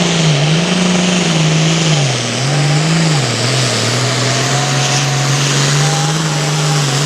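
Super Farm pulling tractor's turbocharged diesel engine running hard at high revs. Its pitch dips and comes back up a few times in the first three seconds, then holds steady a little lower, over a dense rushing hiss.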